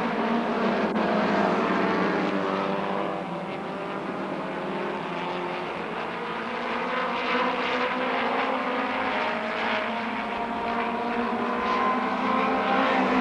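A pack of midget race cars running at speed around the oval, several engine notes overlapping in a steady drone. It drops a little for a few seconds in the middle and swells again near the end.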